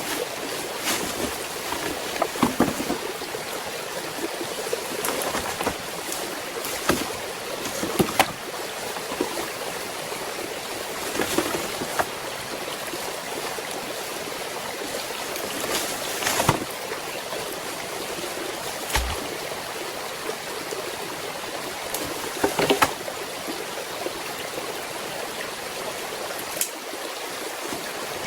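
Steady rush of running stream water, with a dozen or so short knocks and clatters scattered through it.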